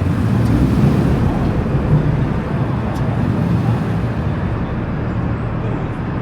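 Car engines running, a steady low rumble, with a few faint clicks.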